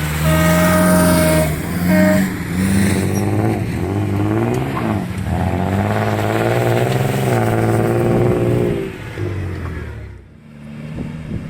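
Off-road competition vehicle's engine revving, its pitch rising and falling repeatedly before dropping away near the end. A steady high tone sounds twice in the first two seconds.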